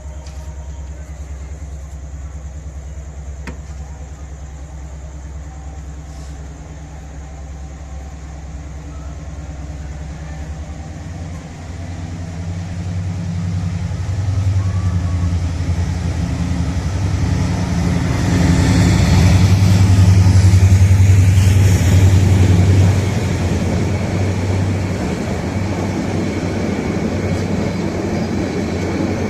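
A heavy vehicle engine runs with a steady low drone. It builds up louder from about a third of the way in, is loudest a little past the middle with added rushing noise, then eases off and settles.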